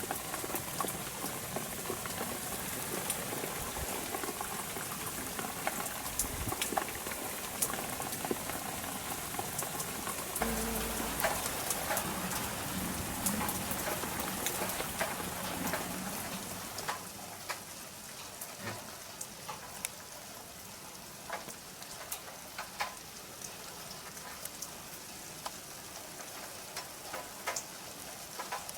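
Rain falling: a steady hiss of drops on surfaces with many sharp individual drip ticks, easing to a softer patter about two-thirds of the way through.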